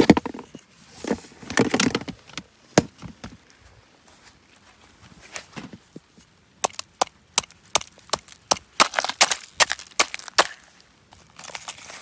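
Firewood being split and broken: a fast run of sharp wooden knocks and cracks about seven to ten seconds in, after softer rustling at the start.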